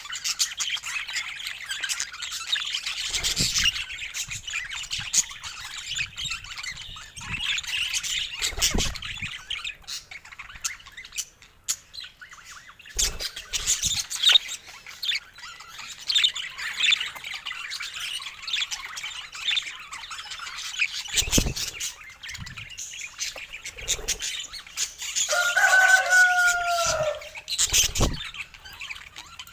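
Pet budgies chattering and warbling, a steady stream of high chirps, with a few soft knocks scattered through. Near the end one clearer, drawn-out call stands out.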